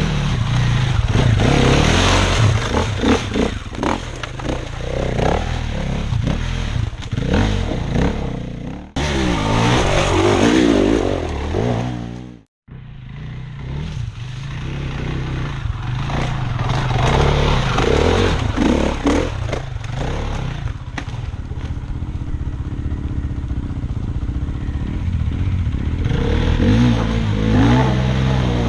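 Off-road motorcycle engines revving and labouring up and down in pitch, with clattering from the rough lane surface. There is a break about nine seconds in, and the sound cuts out completely for an instant about twelve seconds in.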